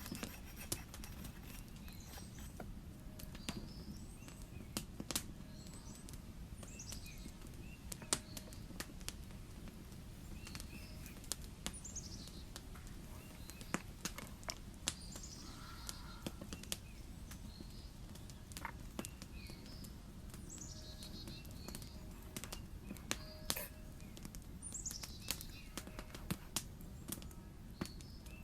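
Small birds singing short, falling phrases every few seconds over a steady low background, with many irregular sharp clicks and crackles throughout.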